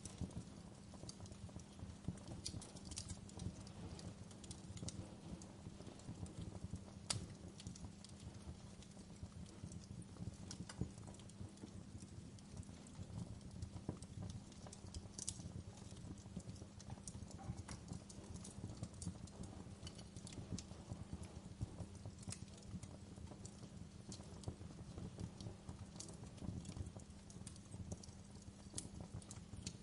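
Wood fire crackling steadily: a dense low rumble of burning with frequent small irregular pops and a few sharper snaps.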